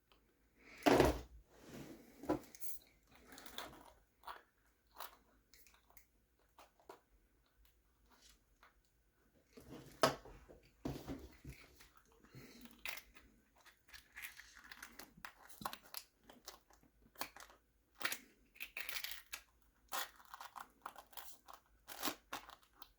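Scattered small clicks, creaks and rustles of hands working small parts of a 1/24-scale RC truck: soft rubber tires being pried off and pressed back onto plastic wheels.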